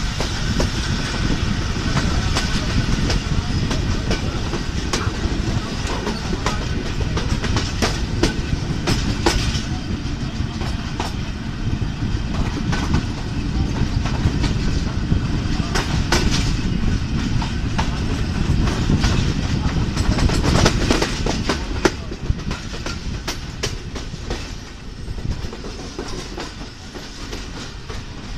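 Tezgam Express passenger coach running along the track, heard from aboard: a steady rumble of wheels on rail with clickety-clack over the rail joints and sharper knocks. It gets somewhat quieter in the last few seconds.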